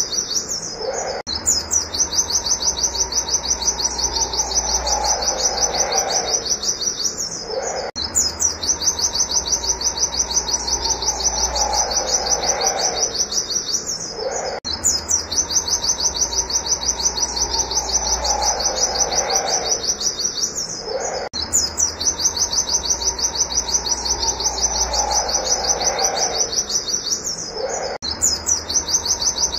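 Pleci (white-eye) singing a rapid, continuous high trill of fast repeated chirps, the 'nembak' shooting song, with a quieter lower call beneath it. The same passage repeats about every seven seconds, as in a looped recording.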